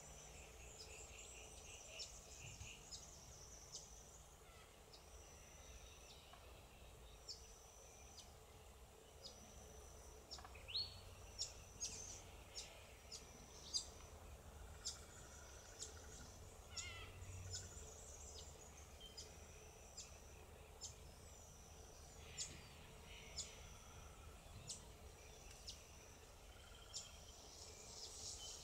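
Faint high-pitched calls of small birds: short, thin whistled notes repeated every second or two, with sharp chirps mixed in.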